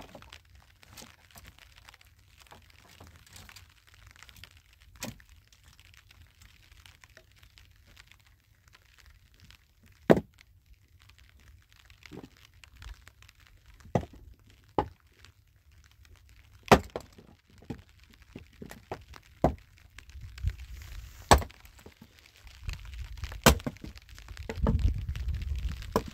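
Dry firewood being handled and broken: irregular sharp cracks, snaps and knocks of wood, several of them loud. A low rumble joins in over the last few seconds.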